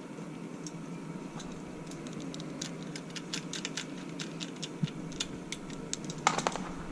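A run of light clicks and taps from tools and small parts being handled, growing denser, with a louder cluster of clicks about six seconds in, over a steady low hum.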